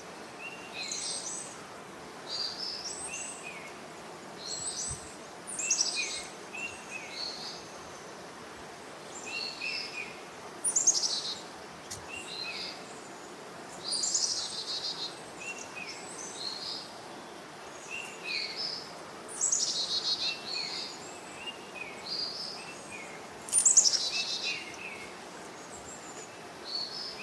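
A wild forest bird calling over and over: short phrases of quick stepped high notes every couple of seconds, several of them louder, trilled flourishes.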